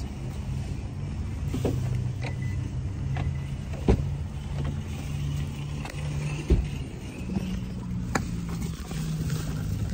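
Car engine idling with a steady low hum. Several sharp clicks and knocks break through it, the last as a car door is opened near the end.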